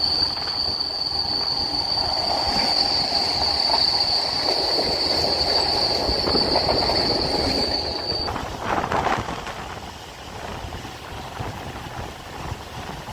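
MEMU electric train running on the track, with a steady high-pitched whine over the running noise that cuts off suddenly about eight seconds in, after which the running is quieter.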